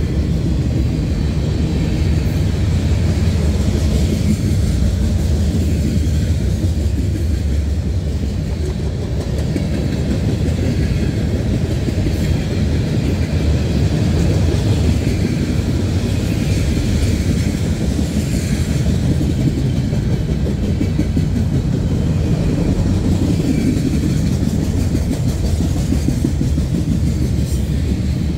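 CSX freight train's tank cars and boxcars rolling past close by: a loud, steady rumble of steel wheels on the rails.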